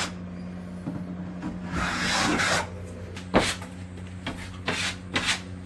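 Hand tools working on plaster: a scraping rub about two seconds in, then several sharp knocks and taps, over a steady low hum.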